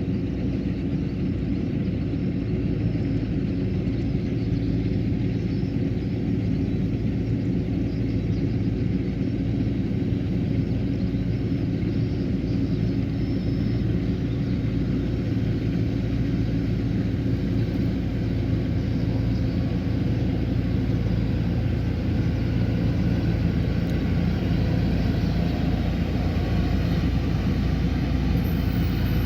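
Kubota combine harvester running steadily at a constant engine pitch, with the hum of its machinery over the top.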